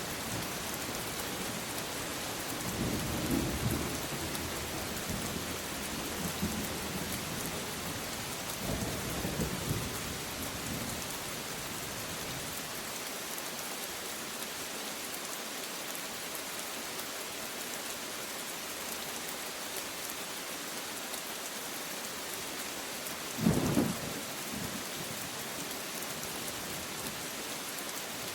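Steady rain hiss with thunder: low rumbles roll through the first ten seconds or so, then a single sharp thunderclap about 23 seconds in, the loudest moment, trailing off in a brief rumble.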